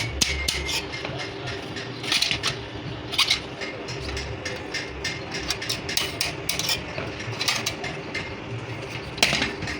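Irregular metallic clinks and light knocks, several a second, from metal tools and parts being handled during clutch plate work, over a steady machine hum.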